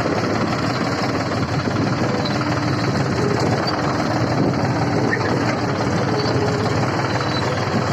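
Tractor diesel engine running steadily, loud and unbroken.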